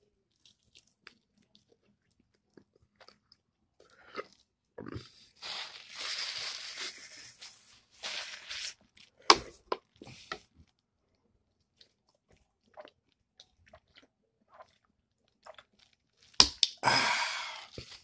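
Close-miked chewing and crunching of fried chicken, with small scattered mouth clicks. Louder stretches of crackling noise with a few sharp clicks come about a third of the way in and again near the end.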